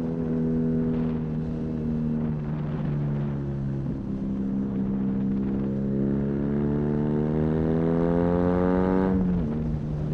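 BMW R nineT's air/oil-cooled boxer twin with an Arrow high-mounted exhaust, heard from the rider's seat under way. The engine note dips slightly about four seconds in, then climbs steadily as the bike accelerates through the revs, and falls sharply near the end as the throttle closes or the next gear goes in.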